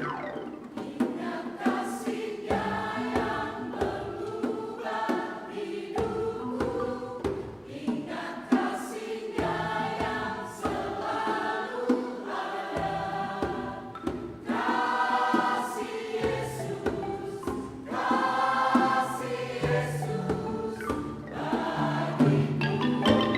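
Hymn music from an angklung and kulintang ensemble, with chords changing about every half second to a second over a moving bass line.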